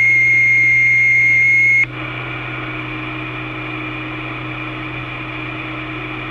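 Two-way radio channel between transmissions: a loud, steady high-pitched tone with hiss for about two seconds that cuts off suddenly, followed by the open channel's steady hum and hiss.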